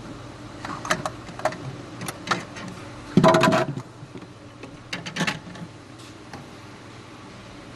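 Clicks and clatter of parts and tools being handled, with a louder half-second rattle about three seconds in, over a low steady hum.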